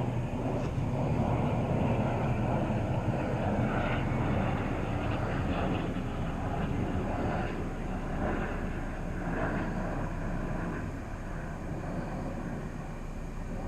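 Wind rumbling and buffeting on the microphone, gusting unevenly and easing off toward the end.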